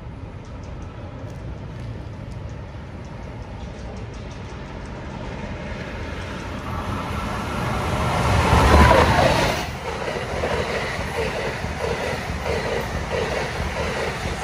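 NJ Transit electric locomotive and multilevel coaches passing. The train noise builds to a loud peak about nine seconds in as the locomotive goes by, then the coaches roll past with a regular clatter of wheels about twice a second.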